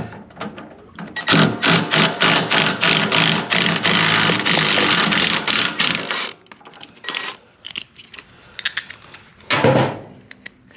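Ratchet clicking quickly and steadily for about five seconds as a bolt is turned out of the motorcycle's cover, followed by a few scattered clicks and a single knock near the end.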